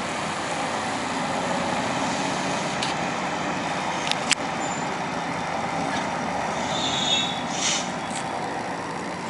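Steady outdoor background noise with a sharp click about four seconds in and a brief high squeal near the end.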